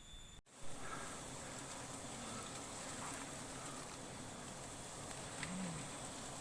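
Steady outdoor background hiss with faint insect buzzing, following an abrupt cut to silence about half a second in.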